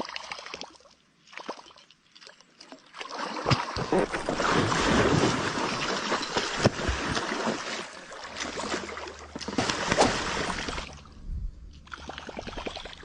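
Water splashing and sloshing for several seconds, loudest in the middle, with a rapid, even ticking at the start and again near the end.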